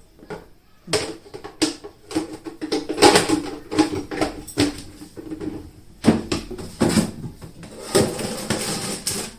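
Food containers being moved about and set down on shelves: a string of knocks and clatters with rustling between them.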